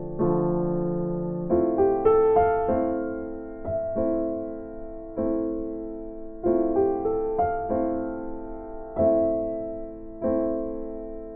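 Background music: slow, gentle piano or electric piano chords, struck about once a second and left to ring and fade.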